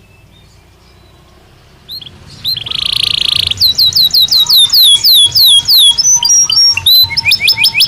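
Belgian canary singing: after a pause of about two seconds, a buzzy rolling trill, then a run of clear whistled notes, each sweeping downward, about four a second, and a quick run of short notes near the end.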